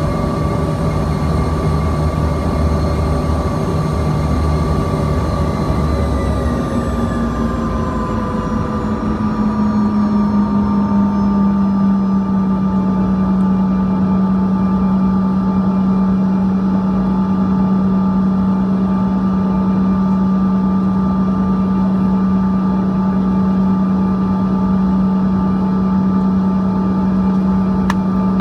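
Cabin drone of a Bombardier CRJ-200's rear-mounted General Electric CF34 turbofans. About six seconds in, several of the engine tones glide down in pitch over a few seconds as engine power is reduced, then the drone holds steady with a strong low hum.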